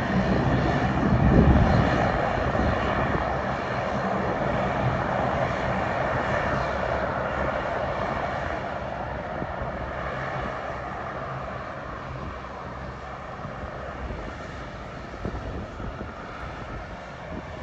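Jet airliner's engines passing close, loudest about a second and a half in, then fading slowly away.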